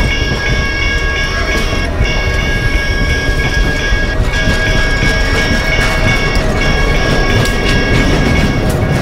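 Passenger cars and a trailing diesel locomotive rolling past close by: a steady low rumble with wheel clatter on the rails. Several steady high-pitched tones ring over it and break off briefly every couple of seconds.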